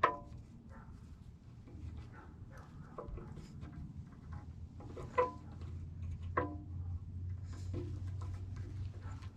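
A few metallic hammer blows on steel bucket-tooth pins and teeth, each ringing briefly: one right at the start, the loudest about five seconds in, another a second later, and lighter taps between.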